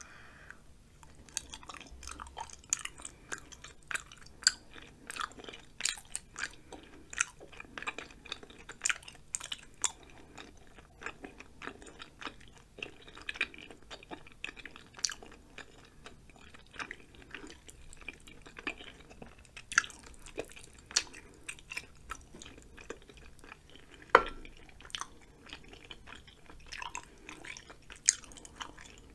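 Close-miked chewing of soft, chewy food (spicy ramen noodles and rice cakes), with wet mouth clicks and smacks, several a second, and a sharper click about 24 seconds in.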